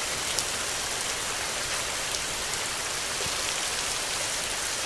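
Steady rain falling: an even hiss with many scattered drop ticks.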